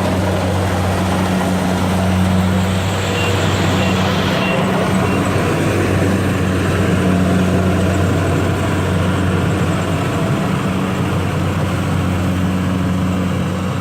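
A heavy engine running steadily with a low, even hum, and a few faint short beeps about three to five seconds in.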